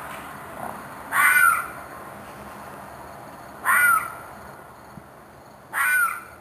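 An unidentified animal screeching at night: three harsh, scream-like calls about half a second long, each bending down in pitch, repeated every two seconds or so. The calls are the kind taken for an animal in distress.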